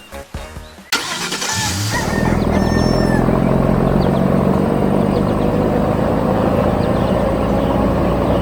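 Background music stops about a second in. An excavator's diesel engine then starts and settles into a loud, steady low run.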